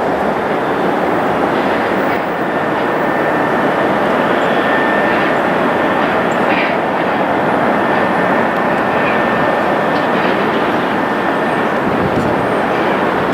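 Jet airliner's engines, loud and steady, with a faint steady whine on top.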